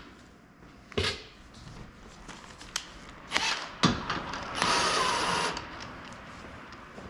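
Car repair work under a vehicle: a few sharp knocks of tools and metal parts, then a burst of about a second from a power tool near the middle.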